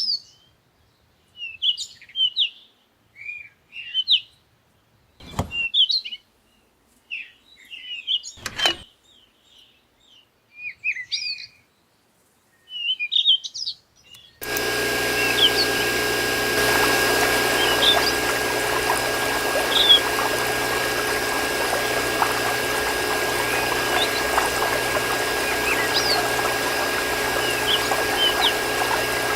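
Small birds chirping in short bursts, with two sharp clicks between them. About halfway through, a small water pump starts suddenly: water pours steadily over a constant motor hum, and faint chirps carry on over it.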